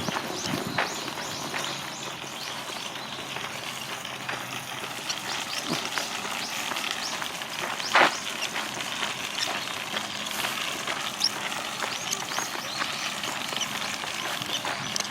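Footsteps on a park path, a steady run of short taps, with one sharper knock about eight seconds in over steady outdoor background noise.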